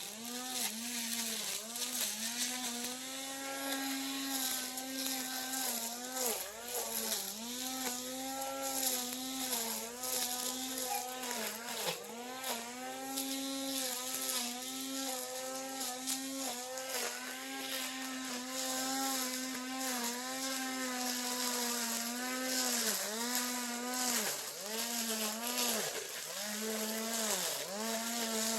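Brush cutter engine running at high speed, its pitch dipping briefly and recovering again and again as the blade meets grass, with the dips coming more often near the end.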